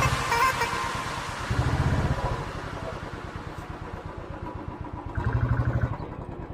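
Motorcycle engine running with a low, even pulsing, swelling louder twice, about one and a half seconds in and again near the end, as the throttle is opened.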